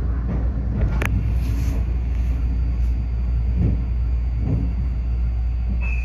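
Iyo Railway 3000 series electric train running, heard from inside the cab as a steady low rumble, with a sharp click about a second in and a couple of soft thumps later on.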